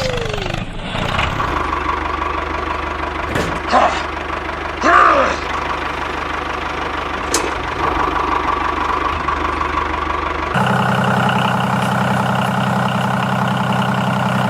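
A small engine running steadily, its note changing abruptly about ten seconds in.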